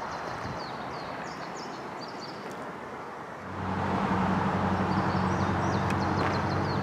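Small birds chirping in repeated short series. About halfway through, a motor vehicle's engine comes in and runs with a steady low hum.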